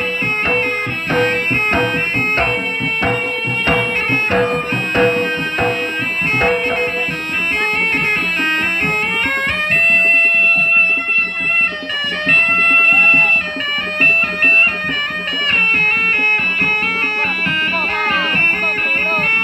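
Live jaranan music: a shrill, reedy slompret (Javanese reed trumpet) plays a held, winding melody. Quick drum strokes back it through the first several seconds, then thin out.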